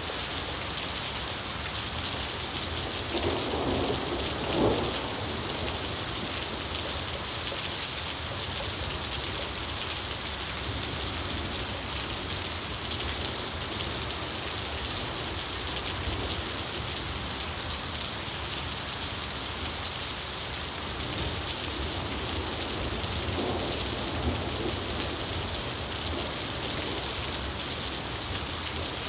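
Steady rain falling, with a rumble of thunder a few seconds in and a fainter rumble near the end.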